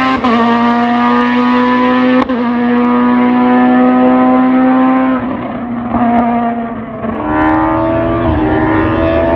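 Race car engine at full throttle, climbing in pitch through the gears with quick upshifts about a fifth of a second and two seconds in. About five seconds in the revs fall away as it lifts off, then it pulls hard again from about seven seconds, with another upshift near the end.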